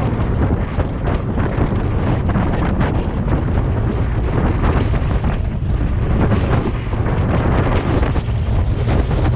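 Heavy wind buffeting on the microphone of a moving Yamaha Aerox 155 scooter, its engine running underneath the rumble.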